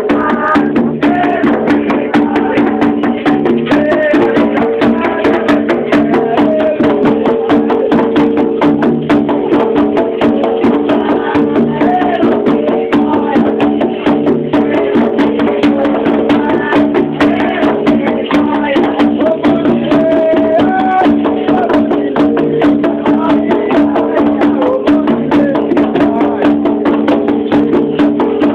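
Candomblé ritual music for Xangô: hand drums, a struck wood block or bell and shakers keep a fast, steady beat under singing voices.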